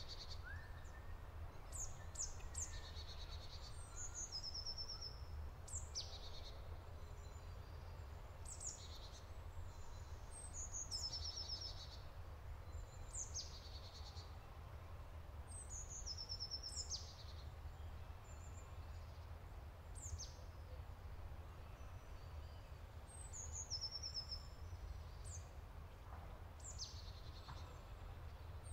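Birds singing: a short phrase of quick high notes sliding downward, then a brief trill, repeated every couple of seconds, over a steady low rumble.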